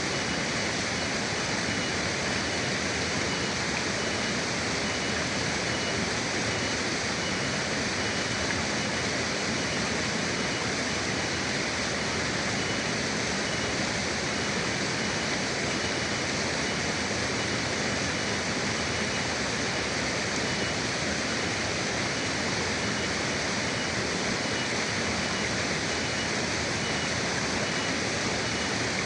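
River water rushing steadily, an even, unbroken wash of flowing-water noise.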